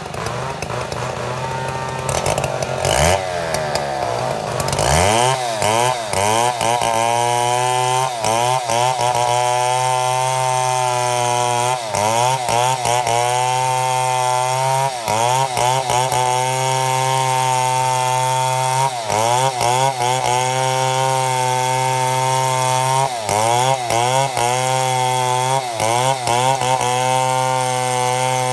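Chainsaw milling a mahogany log into boards: it speeds up over the first few seconds, then runs at full throttle in the cut, its engine note dipping briefly and recovering again and again as the chain loads up in the wood.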